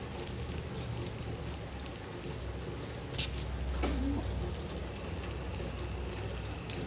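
Steady rain-like hiss with a low rumble underneath, and two brief clicks about three and four seconds in.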